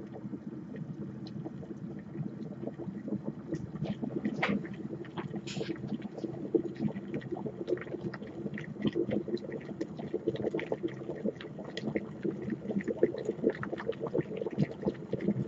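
GForce plastic electric kettle at a full rolling boil: a dense, continuous bubbling and rumbling with scattered crackles, growing busier toward the end as the water nears 212 °F.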